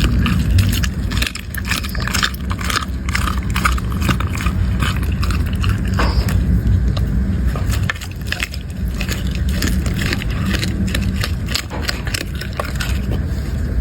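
A dog chewing and crunching food, with quick irregular crunches and clicks over a steady low rumble.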